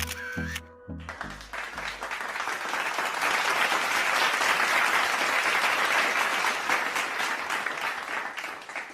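Crowd applause: many hands clapping, building up from about a second in after a short musical clip cuts off.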